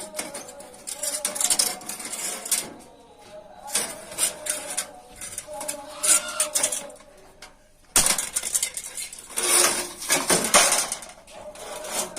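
Sheet metal being worked by hand: irregular clattering and scraping of metal, with a sharp knock about eight seconds in and a louder scraping stretch soon after.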